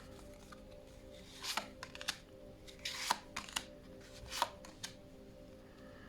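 Oracle cards being handled: a handful of short swishes and flicks as cards are slid, drawn and laid down.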